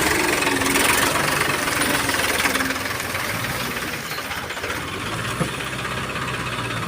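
John Deere 5310 D tractor's three-cylinder diesel engine running steadily at a constant speed.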